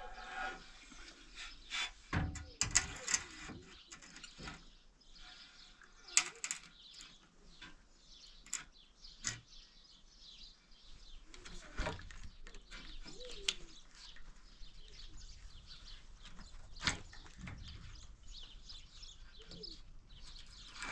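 Small birds chirping, with scattered sharp knocks and clicks.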